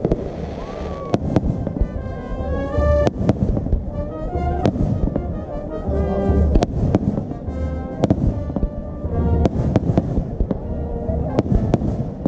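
Aerial fireworks going off in quick, irregular bangs and crackles throughout, with music playing underneath.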